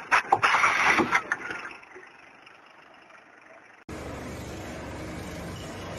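A loud burst of knocks mixed with a raised voice, dying away after about a second and a half. Then, after a sudden cut, an engine running steadily.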